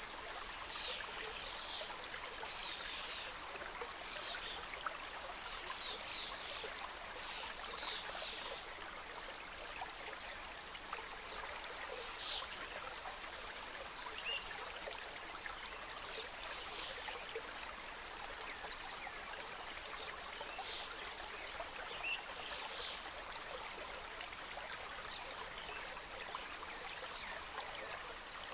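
Mountain stream cascading steadily over rocks, a continuous rushing and trickling of water. Short high-pitched notes come in quick pairs through the first several seconds and now and then after that.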